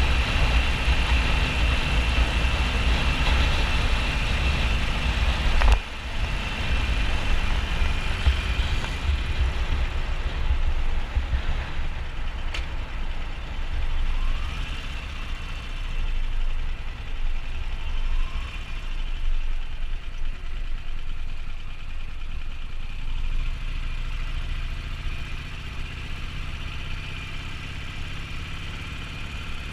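Harley-Davidson Sportster 1200 Nightster's air-cooled V-twin running on the road, under a heavy low rumble of wind on the camera microphone. The level drops suddenly about six seconds in and then eases lower, with a steady engine tone coming up near the end.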